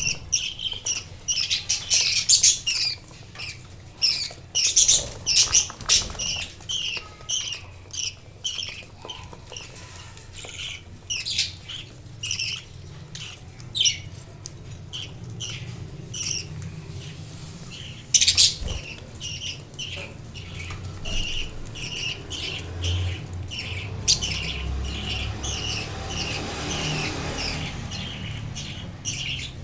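Budgerigars chirping in quick succession, several short high chirps a second, with a few sharp clicks among them.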